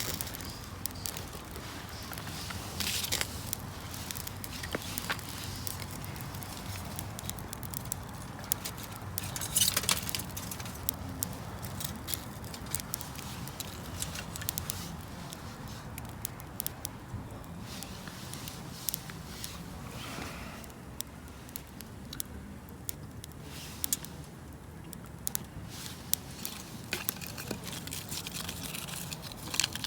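Wood campfire crackling, with irregular sharp pops and clicks scattered throughout over a low steady background.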